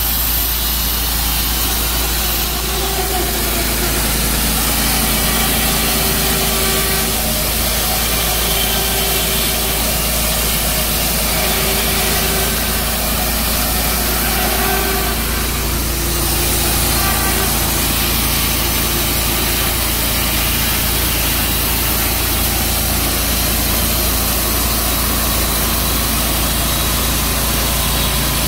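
Tru Cut sawmill running steadily under power, sawing through a maple log; the engine note shifts slightly about halfway through.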